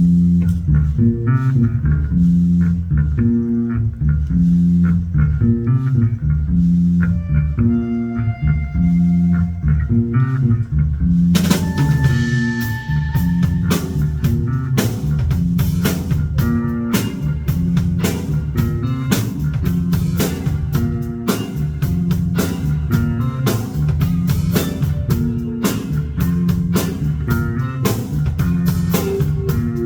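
Rock band playing: a repeating bass guitar and guitar riff over light drums, with the full drum kit and cymbals coming in about eleven seconds in.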